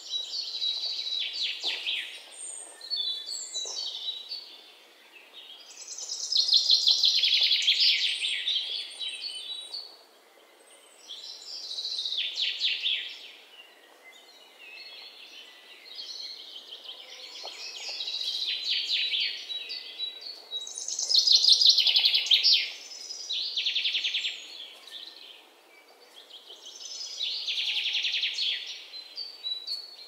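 Songbirds chirping and singing in repeated high-pitched phrases a few seconds apart, each phrase a quick run of trilled notes, over a faint steady outdoor background hiss.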